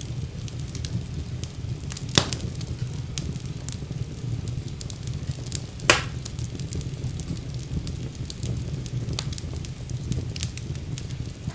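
Wood fire burning in a fireplace: a steady low rumble of flames with scattered crackles throughout and two louder pops, about two seconds in and about six seconds in.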